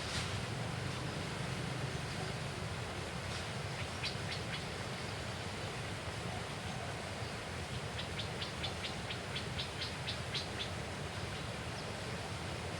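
A bird calling outdoors: a few short high chirps, then a quick run of about a dozen sharp notes near the end, over a steady outdoor background hiss.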